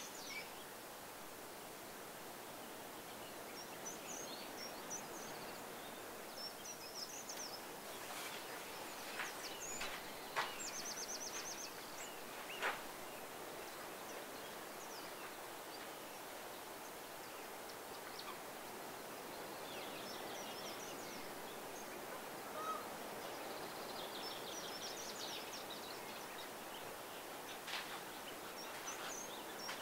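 Small birds calling in short, high chirps and trills over a steady outdoor background hiss, with a few sharp ticks, the loudest about ten and thirteen seconds in.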